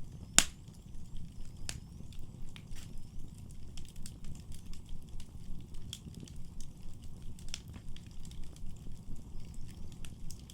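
Wood fire in a fireplace crackling, with scattered pops over a low, steady rumble of the burning. One loud pop about half a second in.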